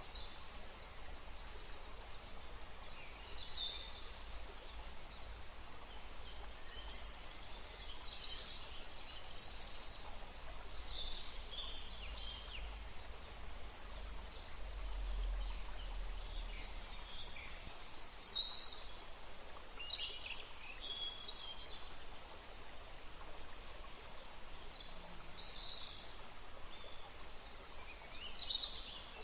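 Woodland ambience: several small birds chirping in short, mostly falling calls, scattered throughout, over a steady background hiss with a low rumble that swells briefly about halfway through.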